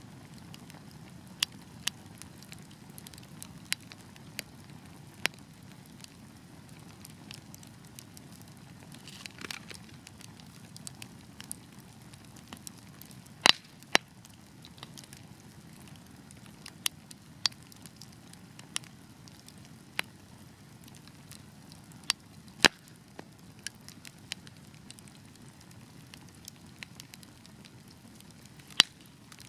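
Fire crackling in a fireplace: sharp, irregular pops and snaps over a low, steady rumble of burning, with a short hiss about nine seconds in and a few louder snaps midway and near the end.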